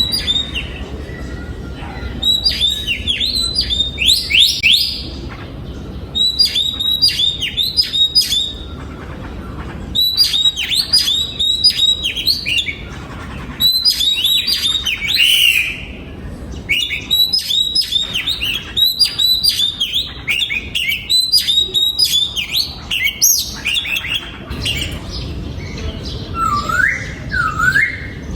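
Oriental magpie-robin singing: a run of loud phrases of quick, repeated down-slurred whistles, each phrase about two seconds long with short pauses between. Near the end come two lower, slurred whistled notes.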